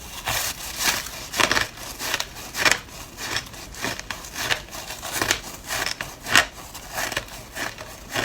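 Teeth biting and crunching through ice, a crisp crunch about every half second.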